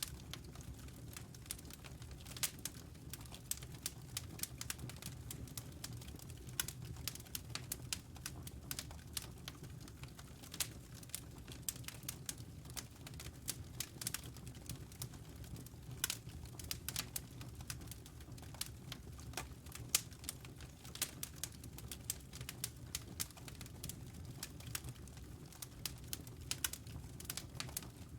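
Wood fire crackling in a fireplace: irregular sharp snaps and pops, many a second, over a low steady rumble of the burning logs.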